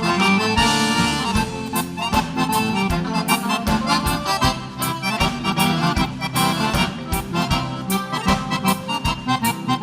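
Gaúcho dance band playing an instrumental passage led by accordion, over a steady dance beat.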